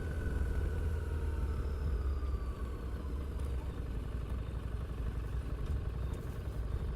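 Harley-Davidson Street 750's liquid-cooled V-twin engine and exhaust running steadily during a ride, a deep even rumble.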